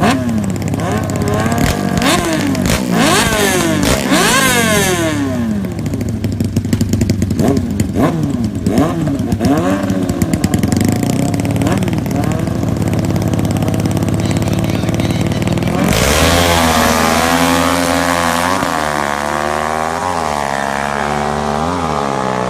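Superbike engines revving, the pitch sweeping up and down with sharp pops. About sixteen seconds in, a louder engine note climbs and drops back several times, like a bike accelerating through its gears.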